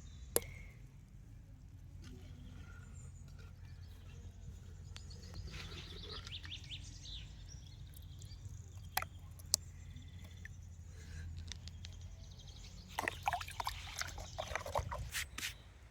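Outdoor garden ambience: birds chirping over a low steady rumble, with a few sharp clicks and a busier spell of short sounds near the end.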